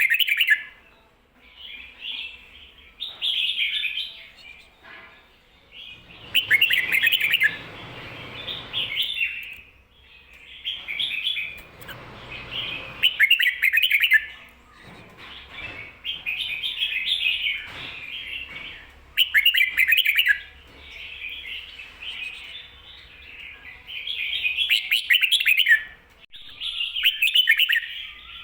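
Red-whiskered bulbul singing short, rich warbled phrases, repeated every two to three seconds. The song is the doubled 'ko-ta-ra' phrase pattern that Thai keepers play to teach other bulbuls.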